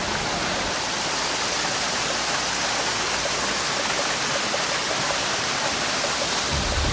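Steady rushing water, like a waterfall, holding an even level and giving way to music near the end.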